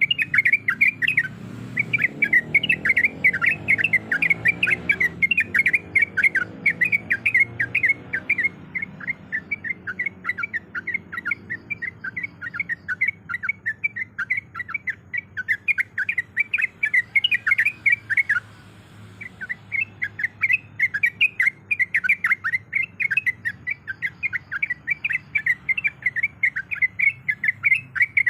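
Yellow-vented bulbul (trucukan) singing a fast, continuous chattering song of short, quickly repeated notes, with a pause of about a second about two-thirds of the way through.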